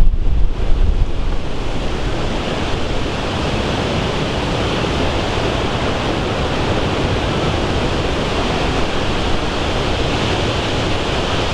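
Strong wind from a violent tornado at close range, blowing hard and buffeting the microphone. Heavy gusts come in the first second, then the wind settles into a steady rush.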